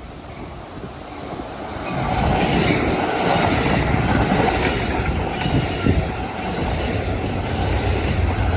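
Amtrak Pacific Surfliner passenger train rolling past, steel wheels on rail, in push mode with a P42 diesel locomotive at the rear. The rolling noise swells about two seconds in and holds, with a faint wheel squeal and a low rumble building near the end.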